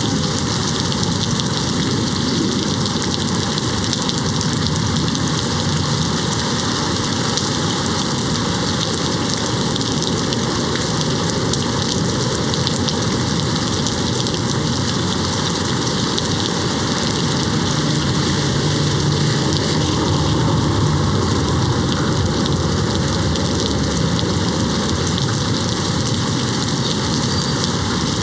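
Steady, heavy rain pattering on a window, an even, unbroken hiss throughout.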